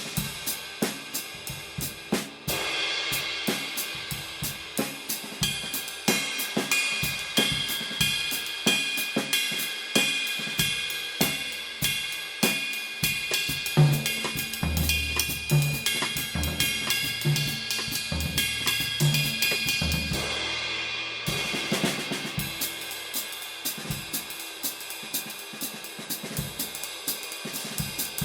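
Paiste Masters Blue Bird Mellow 20-inch ride cymbal (2258 g) played with a stick in a steady pattern over a drum kit groove, its wash ringing throughout. It swells into a fuller wash about two seconds in and again about twenty-one seconds in, and bass drum beats come in through the middle.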